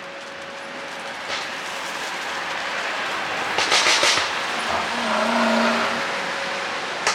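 Mercedes-Benz S500L's twin-turbo V8 running with a slowly rising exhaust note. About four seconds in comes a short cluster of sharp exhaust pops and crackles from its pop-and-crackle ECU tune, followed by a brief humming tone.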